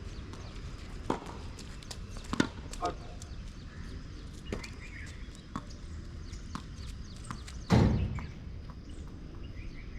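Tennis balls being struck by rackets and bouncing on the court: a series of sharp pops about a second apart, with one louder, heavier thud near the end.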